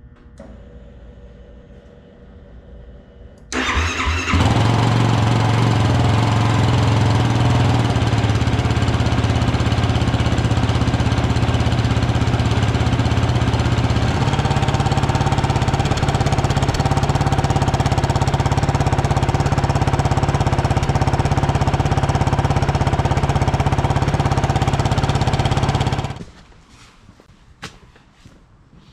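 2021 Yamaha YFZ 450R's single-cylinder four-stroke engine started cold about three and a half seconds in, then idling steadily, its idle note shifting slightly partway through, before being switched off a few seconds before the end.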